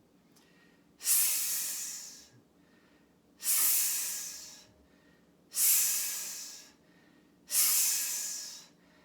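A person forcefully hissing "sss" out through clenched teeth: the QiGong lung healing sound. Four hissed exhalations about two seconds apart, each starting sharply and tapering off, like steam coming off a steam pipe.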